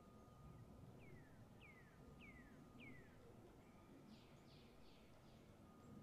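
Faint bird calls: four short falling notes about half a second apart, then a quick run of four or five harsher, rasping notes, over a faint steady high tone.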